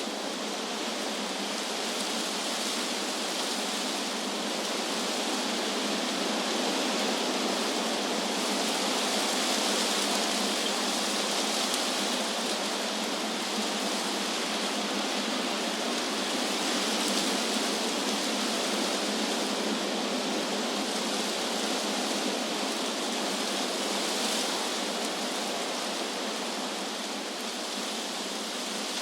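Wind blowing through trees, a steady rushing of leaves that swells and eases gently in slow gusts.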